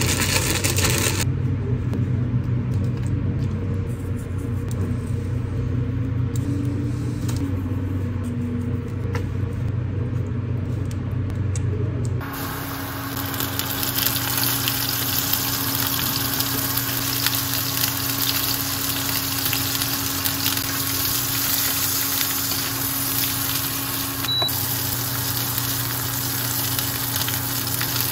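Chicken thigh frying in oil in a nonstick frying pan: a steady, dense sizzle that starts abruptly about twelve seconds in. Before that there is only a quieter low hum.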